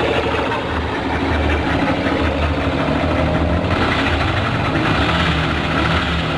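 Yamaha Factor ED motorcycle's single-cylinder engine idling with a rapid mechanical ticking clatter over its rumble. The noise appeared after a 12,000 km service, and the owner wonders whether it could be the cam chain or valves tapping.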